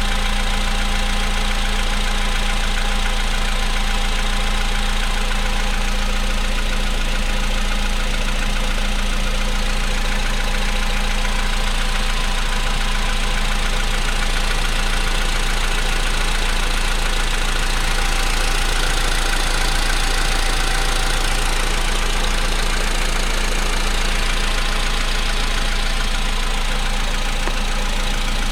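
Volkswagen Polo Sedan engine idling steadily after a cold start, with knocking from the engine running through the idle.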